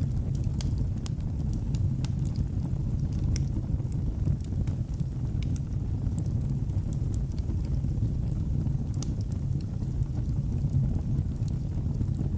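Wood fire burning in a fireplace: a steady low rumble of flames with sharp crackles and small pops at irregular intervals.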